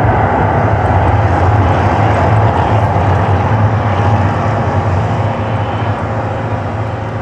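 Loud, steady low rumble from the Mirage volcano show's effects, fading gradually toward the end.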